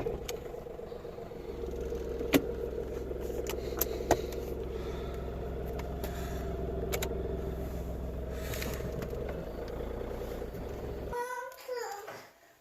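Steady hum of a car driving, heard from inside the cabin, with a couple of sharp clicks. It cuts off abruptly about eleven seconds in.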